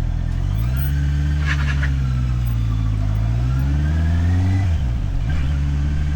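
Motorcycle engine pulling away from idle, the revs rising over about four seconds with a brief dip partway, then dropping off sharply as the throttle closes near the end.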